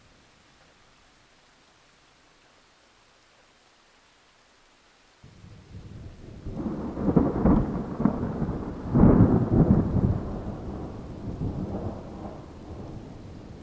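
Thunder rolling over a faint hiss of rain: the thunder breaks in suddenly about five seconds in, swells to two loud peaks, then rumbles away near the end.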